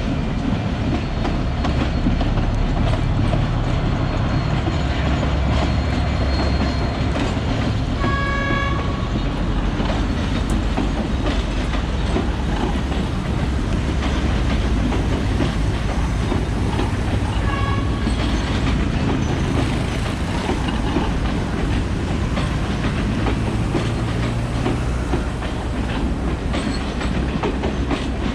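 A train running past with a steady rumble and wheel clatter on the rails. Its horn sounds twice: about a second long a third of the way in, then a shorter blast a little past halfway.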